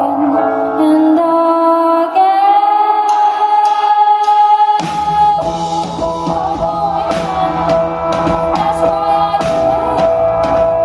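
Live band music with a high female voice singing long wordless held notes that glide between pitches. About five seconds in, bass and drums come in with a steady beat.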